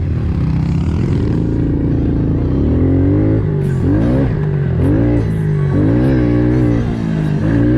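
Pit bike engine revving hard and backing off over and over, about once a second, as the bike is ridden through a series of dirt jumps.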